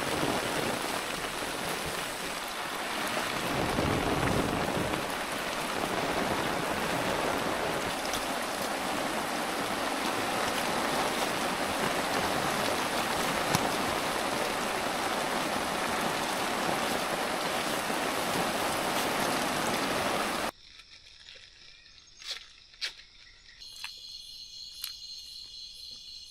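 Heavy rain falling steadily for about twenty seconds, then cut off abruptly. A quiet forest follows, with a few sharp clicks and, near the end, a steady high-pitched trilling of insects.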